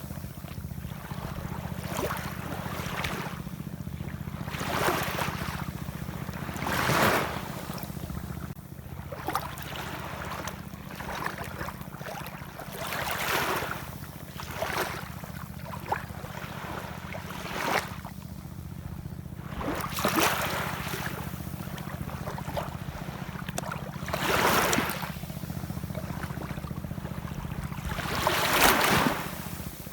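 Ocean surf washing in, with a surge of breaking waves every few seconds; the loudest breaks come about seven seconds in and near the end. A steady low rumble runs underneath.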